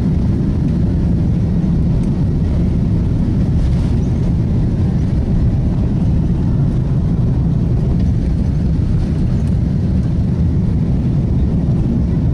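Airbus A330 jet airliner: a steady low rumble of engines and rushing air, unchanging in level.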